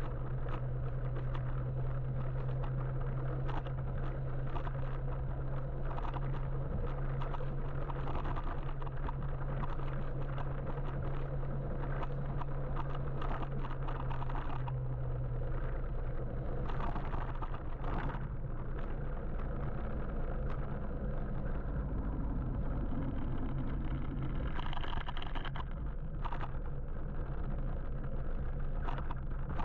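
Street traffic and road noise heard while riding an electric motorbike through the city: a continuous rumble with a steady low hum that stops about halfway, and scattered short knocks.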